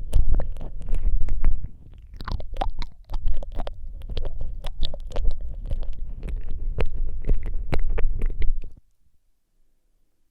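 ASMR mouth sounds right on a Rode microphone: rapid wet clicks and smacks of lips and tongue over a deep rumble. They stop about nine seconds in.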